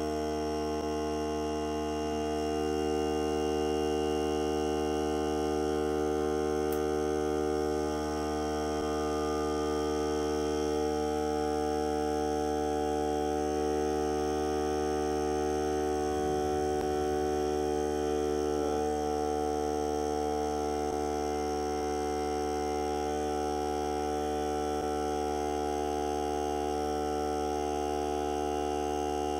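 Hart cordless air compressor running steadily: an even, unbroken hum made of many steady tones.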